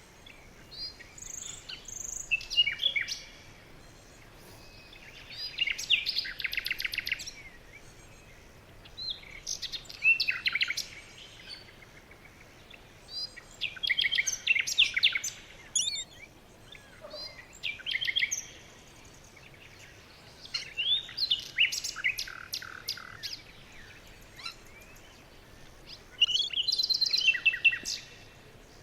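A songbird singing: repeated phrases of sharp chirps and fast trills, one roughly every four seconds, with short pauses between.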